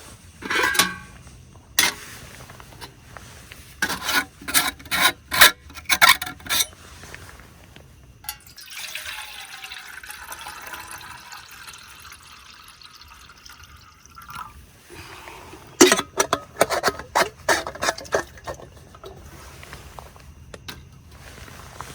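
Water poured into a camp cooking pot for about six seconds midway, with clinks and knocks of camp cookware being handled before and after.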